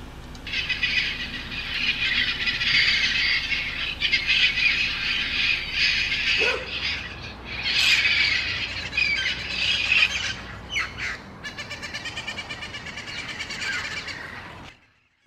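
A flock of feral Amazon parrots squawking, many loud harsh calls overlapping. Near the end the calls settle into an even run of about four a second, then cut off abruptly.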